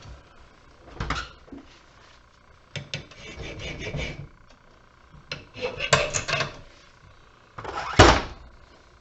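Metal parts of a scrapped light fixture being knocked and pried at with hand tools to get the copper out: scattered clanks and scraping, with the loudest knock near the end.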